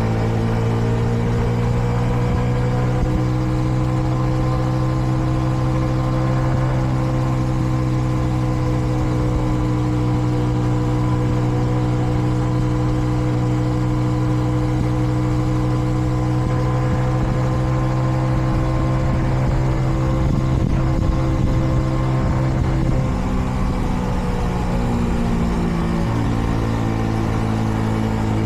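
Kreidler Dice CR 125's single-cylinder four-stroke engine running at a steady moderate cruising speed, held back because it is still being run in. Its note rises a little in the first few seconds, drops lower about 23 seconds in, and picks back up near the end.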